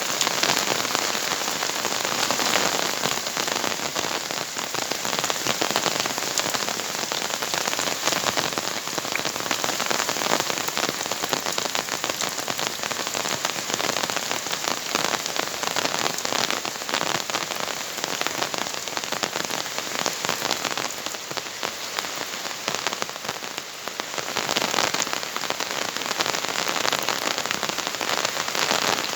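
Heavy rain pouring down: a dense, steady hiss and patter of drops, easing a little for a moment about three-quarters of the way through.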